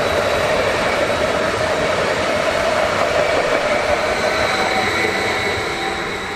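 Train running through the station, a loud steady rush of wheel and running noise with a thin high whine over it, dying away near the end.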